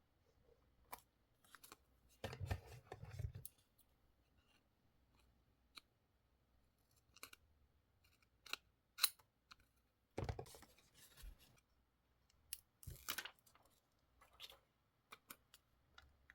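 Scissors cutting paper: short snips and a few longer cuts, with light clicks and paper rustles between them.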